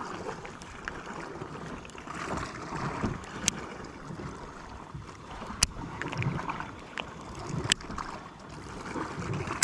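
Water lapping against a fishing kayak's hull in swells that come and go every second or two, with wind on the microphone. Sharp clicks sound about every two seconds.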